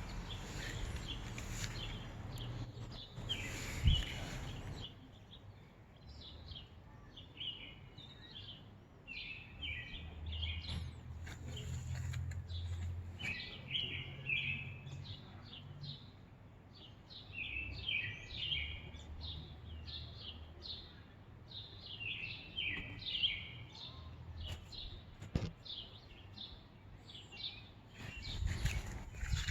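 Small bird chirping: short, high chirps in quick clusters, repeated again and again. A sharp knock about four seconds in.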